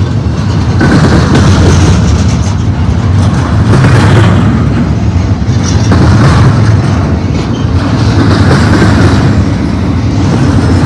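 Double-stack intermodal well cars rolling past at close range: a loud, steady rumble of steel wheels on rail that swells and eases every second or two.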